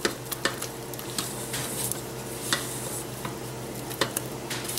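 A silicone spatula folds thick, chunky apple-walnut muffin batter in a bowl, making soft wet stirring sounds with occasional light clicks.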